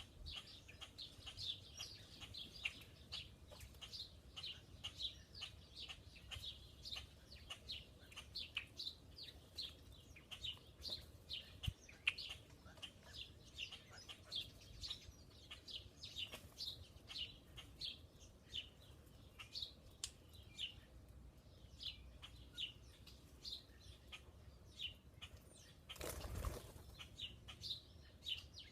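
Small songbirds chirping at a feeder: a steady stream of short, high, falling chirps, a few each second. A brief rush of noise comes about two seconds before the end.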